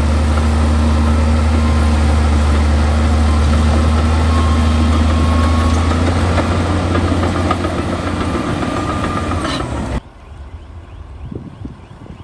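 Heavy diesel engine of earthmoving machinery running steadily with a deep hum, easing off a little near the end. About ten seconds in, the sound drops suddenly to a much quieter background with a few light ticks.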